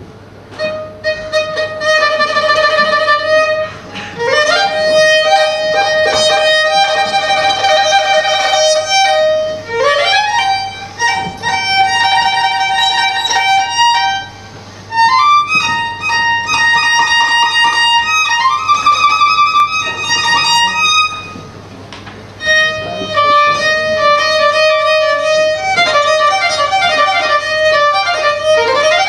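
Solo violin playing slow phrases, sliding up into sustained notes, some with vibrato, with brief pauses about fourteen and twenty-one seconds in.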